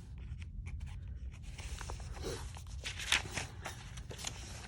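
Paper rustling with soft clicks and taps as journal pages and paper tags are handled and turned, over a low steady hum.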